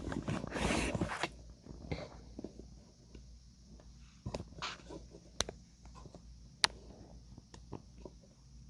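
Small handling noises: a brief rustle at the start, then scattered light clicks and knocks.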